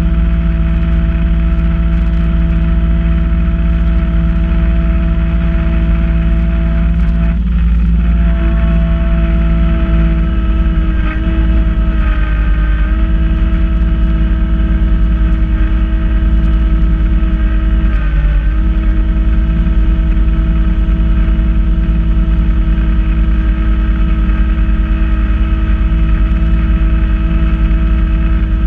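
Kubota B2650 tractor's three-cylinder diesel running steadily at working speed, powering a front-mount snow blower. The engine pitch sags briefly a few times, about 7, 12 and 18 seconds in, as the blower takes on heavier snow, then recovers.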